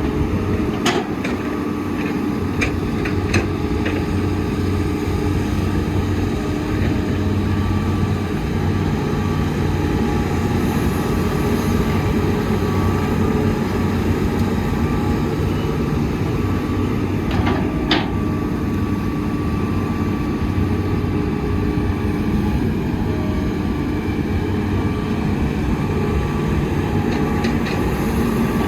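Heavy excavator's diesel engine running steadily under work, with a few sharp knocks from the machine, the loudest about 18 seconds in.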